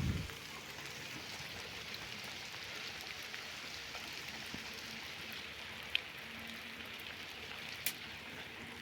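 Steady rain falling, an even hiss throughout. A low thump fades out at the very start, and there are two sharp clicks near the end.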